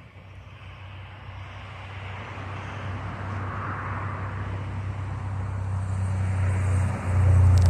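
Engine hum of a passing vehicle, a steady low drone that grows steadily louder, loudest near the end.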